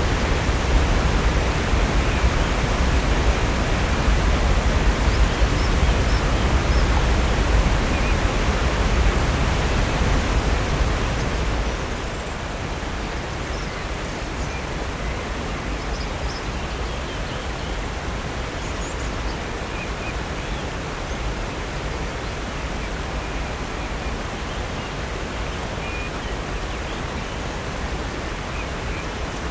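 Steady rushing of falling water at Upper North Falls on Silver Creek, with a deep low rumble. A little under halfway through it drops in level and loses some of its low end. Faint bird chirps sit over the rush.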